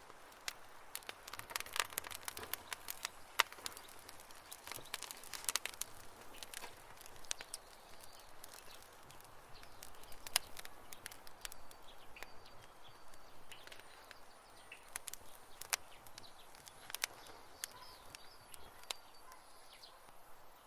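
Wood campfire crackling: irregular sharp pops and snaps over a soft hiss, thickest in the first few seconds. A few faint high chirps sound in the middle.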